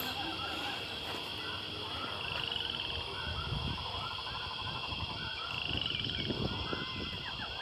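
An outdoor chorus of many short, repeated chirping animal calls over a steady high drone, with two brief trills.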